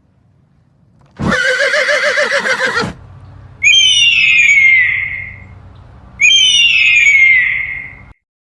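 A horse whinnies once, a loud call with a quavering pitch, then two long high-pitched animal calls each glide downward, about two and a half seconds apart.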